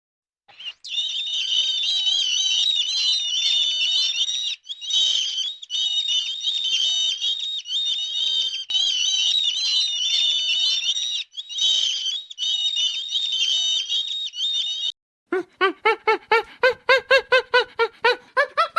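A crowd of small birds, likely chicks, peeping and chirping together, shrill and continuous with a few brief breaks. Near the end it cuts to a rapid run of lower honking calls from waterfowl, about four a second.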